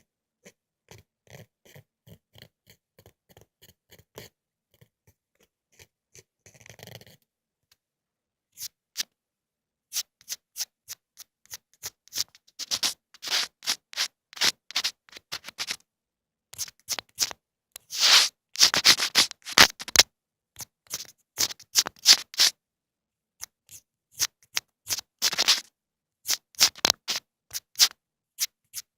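Close-up ear-cleaning ASMR sounds: short scratching and scraping strokes, sparse and quiet at first, then louder and denser from about ten seconds in.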